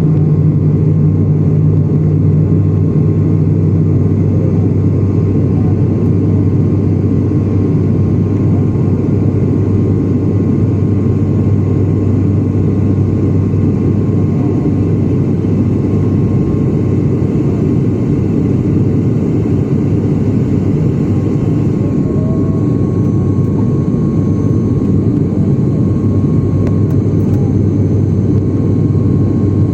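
Airliner noise during the landing approach: a loud, steady drone of engines and rushing air, with a low hum that drops out about five seconds in.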